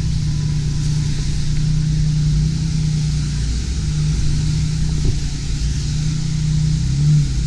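A vehicle's engine running steadily under way, a low, even drone with a slight change in pitch near the end.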